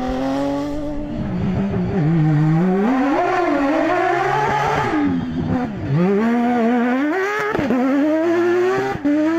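Rally car engine revving hard through the gears, its pitch climbing and then dropping sharply again and again as the driver shifts and lifts off.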